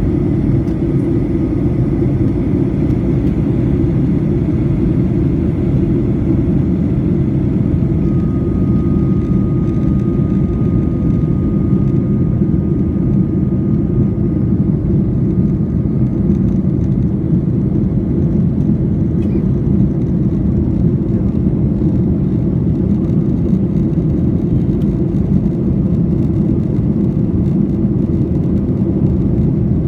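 Steady jet airliner noise, a constant deep rumble of engines and airflow as heard inside the cabin, with no change in level.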